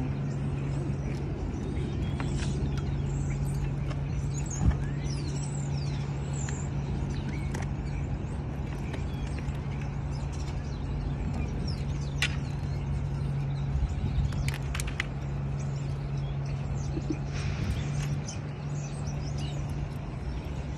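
A steady low mechanical hum, with a sharp knock about five seconds in and a few light clicks later. Birds chirp faintly in the first several seconds.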